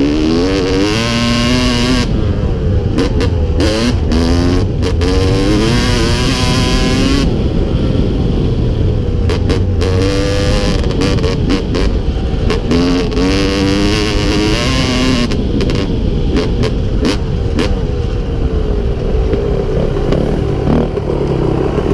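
Yamaha WR250Z two-stroke enduro motorcycle being ridden, its engine pitch climbing under throttle and dropping back again and again as it accelerates and shifts. Frequent short knocks run through it.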